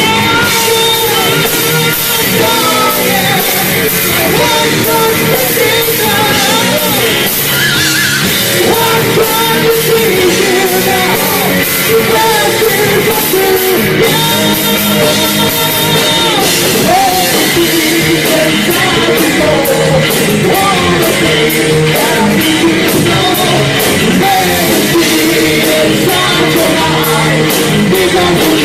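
Live heavy metal band playing loudly: electric guitars, bass and drums with a steady beat, and singing over it.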